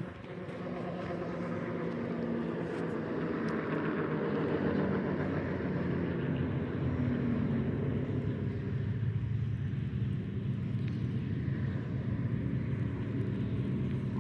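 A distant engine droning steadily, growing louder over the first few seconds and then holding level.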